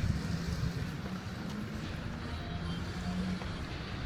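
Road traffic: a steady low hum of vehicle engines with road noise.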